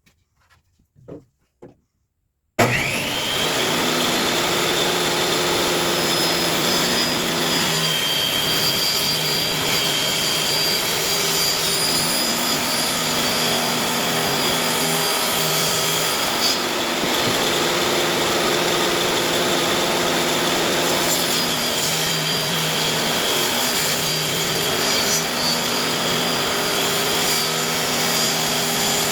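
A few light knocks, then a table saw starts abruptly and runs loud and steady with a high whine while 45-degree bevels are cut on the wooden boards.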